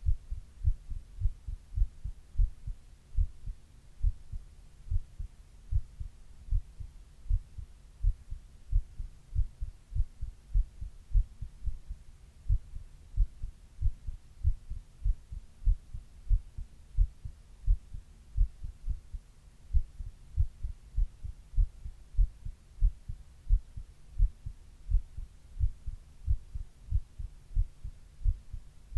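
A person's heartbeat heard close up: low, muffled thumps in a steady, even rhythm, with a faint background hum.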